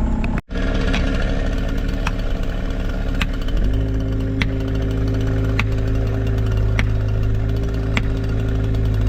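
Engine of a compact work machine running steadily, then rising in pitch and holding higher about three and a half seconds in as it is throttled up. A light tick repeats about once a second throughout.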